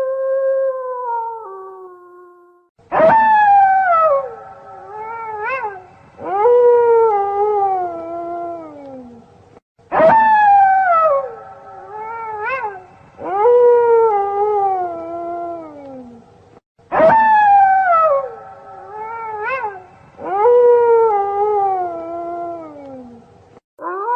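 Wolves howling in chorus: long howls that slide down in pitch, with two or more voices overlapping and short rising-and-falling yelps between them. The same sequence of howls repeats about every seven seconds, a looped recording.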